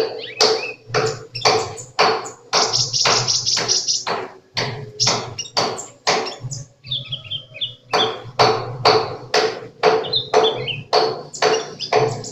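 A sunbird (kolibri) chirping in short, high notes over a loud, steady tapping beat of about two taps a second. The bird's calls come through most clearly about halfway in and again near the end.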